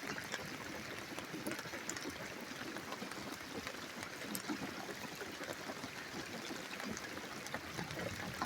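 Thunderstorm rain falling steadily, with water pouring and trickling and scattered small drips.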